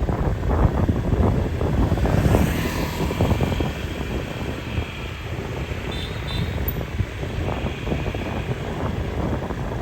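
Street noise with a motor vehicle's engine running close by, loudest about two to three seconds in and then easing off.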